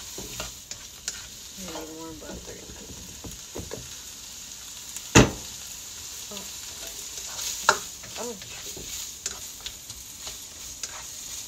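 Diced ham, onion and garlic sizzling in butter in a nonstick wok while a spatula stirs and scrapes them, with scattered clicks against the pan. One sharp knock about five seconds in is the loudest sound.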